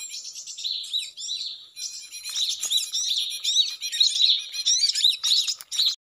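Small birds chirping: many quick, overlapping high chirps, the calls of cinereous tits (gelatik batu), the bird being lured and trapped here.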